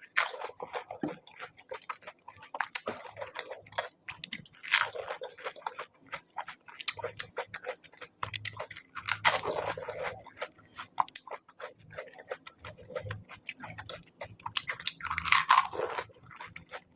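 Close-up eating sounds of panipuri: crisp puri shells crunched between the teeth and chewed, in quick irregular crunches with a few louder ones.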